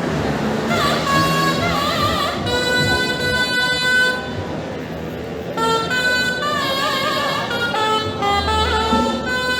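A reedy wind instrument playing an ornamented melody, moving between held notes with quick wavering trills, typical of the double-reed pipes played in a Kerala temple procession.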